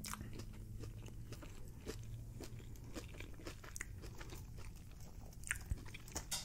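Quiet close-up chewing of fast food: soft, irregular mouth clicks and crunches, with a few slightly louder ticks near the end.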